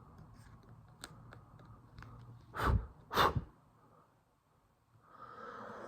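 Two short, forceful puffs of breath about half a second apart, blown onto the phone's parts to clear dust, after a few faint clicks of small tools.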